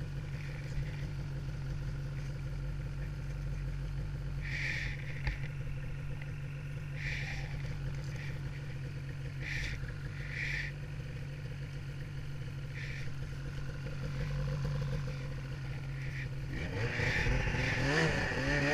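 Snowmobile engine running steadily at cruising speed. Short higher-pitched bursts come and go over it, and near the end a louder sound with wavering pitch joins in.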